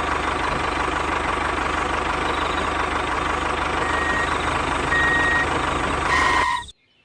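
Tractor engine running steadily with a regular low throb. Short high beeps come about five seconds in, and the sound cuts off suddenly just before the end.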